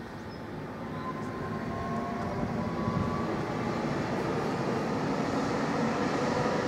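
SNCB double-deck M6 passenger train approaching and running past on the rails, its rumble growing steadily louder, with a faint whining tone over it.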